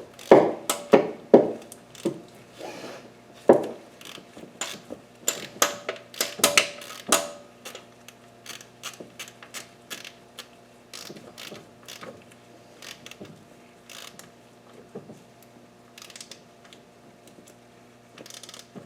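Flexi-head ratchet on a 10mm deep-wall socket clicking in short irregular runs as bolts are run in and tightened, the clicks thick in the first half and sparser toward the end. A faint steady hum lies underneath.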